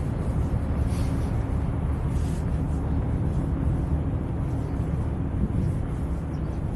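Wind buffeting the microphones of an Insta360 X3 camera, a low, uneven rumble with a faint steady hum beneath it.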